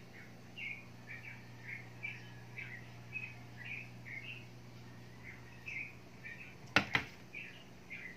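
A small bird chirping, a steady run of short high chirps about two or three a second, over a low steady hum. Near the end come two sharp clicks in quick succession, the loudest sounds.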